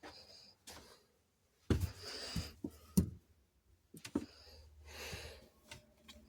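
Soft breaths close to the microphone, two longer ones about 2 and 5 seconds in, with a few sharp clicks and knocks from objects being handled, the loudest about 3 seconds in.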